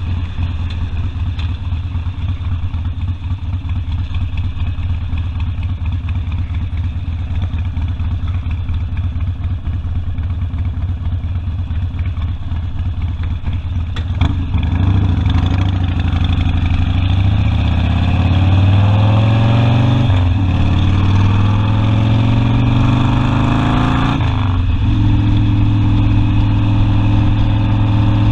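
Harley-Davidson Sportster V-twin engine running steadily at low revs, then accelerating hard about halfway through: the pitch climbs, drops at a gear change, climbs again and drops at a second shift, then it holds a steady cruise.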